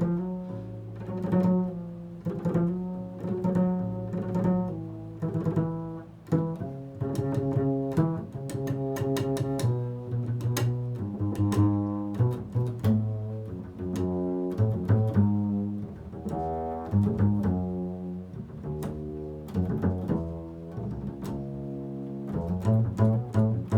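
Improvised instrumental music on a low-pitched string instrument: a steady run of plucked notes ringing over sustained low tones.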